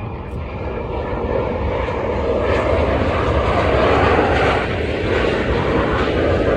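Airliner engines running as the aircraft taxis, a steady rushing drone that grows louder over the first few seconds and then holds.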